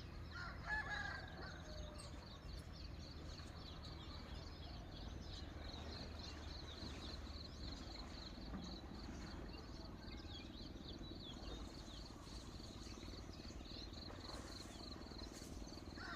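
Outdoor farm ambience: insects chirp steadily in a fast, even pulse. A short bird call comes about a second in, with a similar call again at the very end, over a low background rumble.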